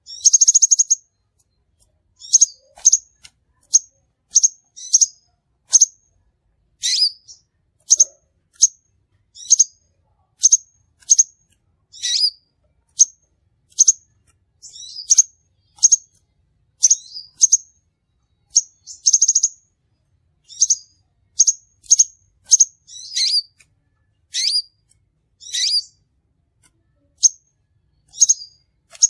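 Crimson sunbird calling: short, sharp, high-pitched chips repeated about once or twice a second, with a couple of brief rapid buzzy trills.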